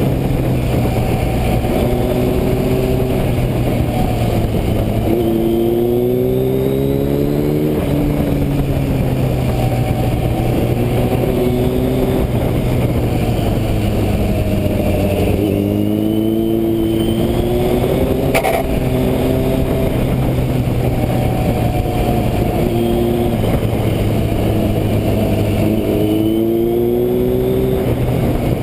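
A 1983 Kawasaki KZ1000R's inline-four engine heard on board while riding, its revs rising and falling through the curves. The engine pulls hard, rising in pitch, about five, fifteen and twenty-six seconds in, over a steady rush of wind on the microphone.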